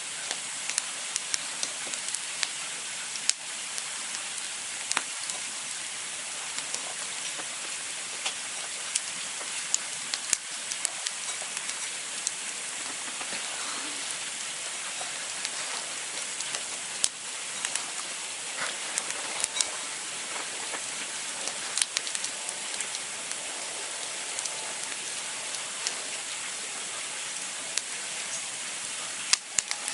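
Campfire crackling: a steady hiss with frequent sharp pops and snaps at irregular moments, a few louder than the rest.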